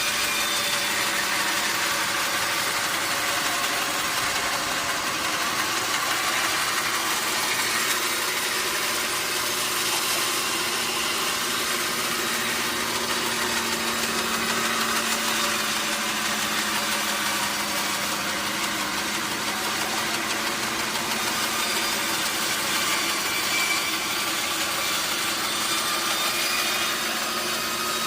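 Sawmill machinery running steadily, a constant mechanical drone with a steady hum and no breaks.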